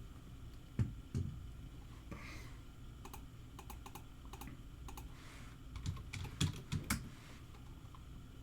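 Typing on a computer keyboard: two sharper keystrokes about a second in, then a run of keystrokes from about three seconds in, ending in a few louder taps.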